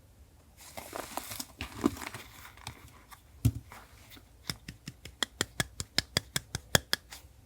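Paper rustling and crinkling as it is handled, then a single thump, followed by a quick run of sharp clicks, about five a second, in the second half.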